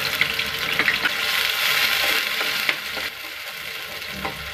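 Freshly added ground onion paste sizzling in hot oil with cumin seeds in a kadai, the hiss easing off about three seconds in. Near the end a spoon stirs it, with a few light scrapes against the pan.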